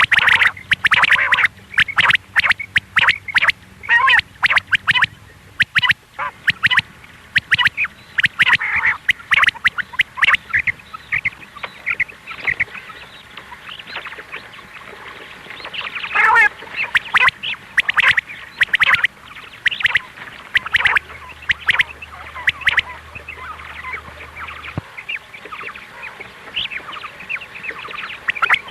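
Quail calling, as a hunting lure recording: rapid runs of short, sharp calls, repeated throughout and densest in the first few seconds.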